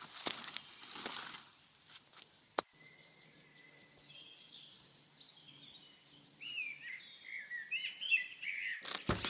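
Small birds chirping in a quick run of short, gliding calls in the last third, over faint outdoor background. A few sharp clicks come in the first few seconds, and a burst of loud knocking and clatter comes right at the end.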